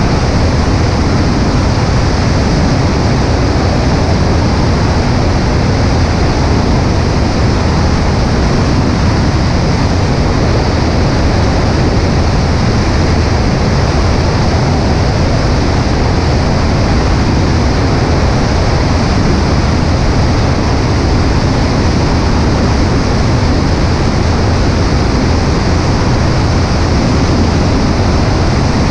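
Steady rush of air over a wing-mounted camera on a Cessna 140A in cruise flight, with the drone of the light aircraft's engine underneath; it does not change.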